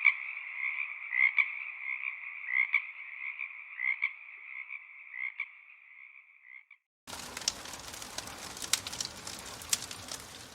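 Frogs calling in a steady trilling chorus, with louder calls standing out about every second and a quarter, fading out about seven seconds in. After a brief gap comes a steady hiss with scattered crackling clicks.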